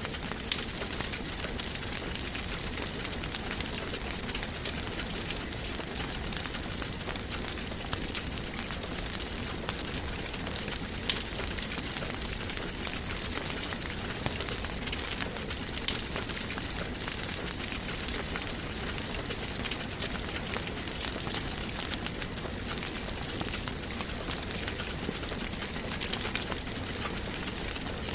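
Wood fire burning in a fireplace: a steady hiss with frequent small crackles and pops, one sharper pop about eleven seconds in.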